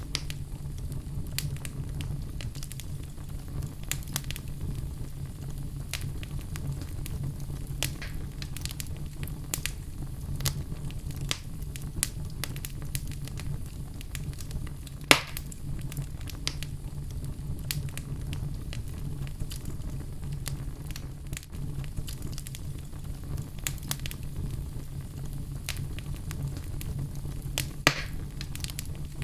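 Wood fire crackling in a fireplace: frequent small sharp pops and snaps over a steady low rumble, with one louder pop about halfway through and another near the end.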